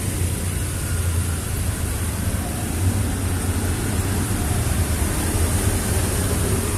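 Steady rainfall, an even hiss with a low rumble underneath.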